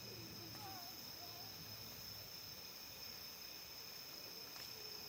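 Steady high-pitched insect trill, with two faint crackles from the campfire near the end.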